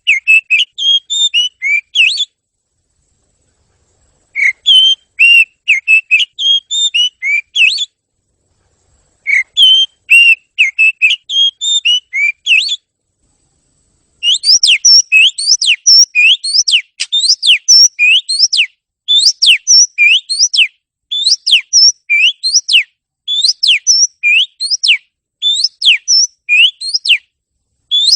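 Oriental magpie-robin (kacer) song: phrases of clear, varied whistled notes with short pauses between them, then from about halfway a steady run of repeated rising-and-falling whistles.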